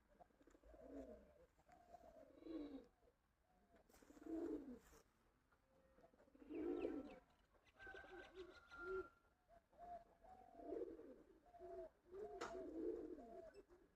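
Pigeons cooing, several calls overlapping in low, rolling phrases that come back every couple of seconds.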